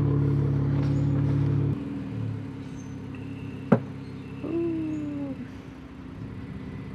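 Car engine running steadily, heard from inside the car, that cuts off abruptly under two seconds in; after it, quieter sounds follow: a single sharp click and a short, slightly falling whine.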